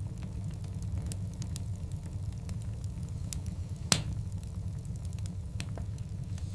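Wood fire burning in a fireplace: a steady low rumble of the flames with scattered crackles and one loud, sharp pop about four seconds in.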